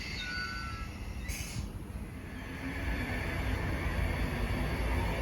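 Class 320 electric multiple-unit train running at a station platform: a short hiss about a second in, then a low rumble with a faint hum that builds from about halfway through.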